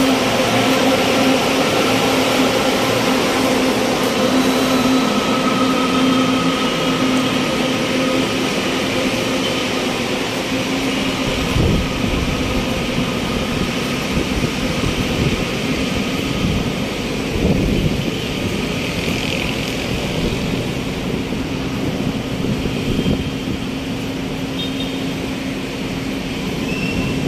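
Steady hum and rumble of an LRT Line 2 train standing at the elevated station, with a droning tone. A few dull low thumps come about twelve and eighteen seconds in.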